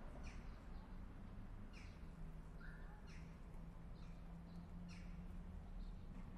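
Small songbirds chirping: a scattered run of short, high chirps that fall in pitch, over a faint steady low hum.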